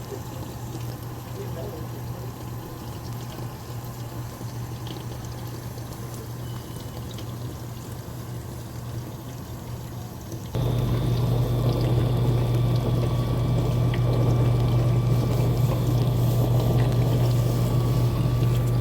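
Frigidaire dishwasher filling with water over a steady low hum. About ten seconds in, its newly replaced wash motor starts, and a louder steady hum with churning water takes over.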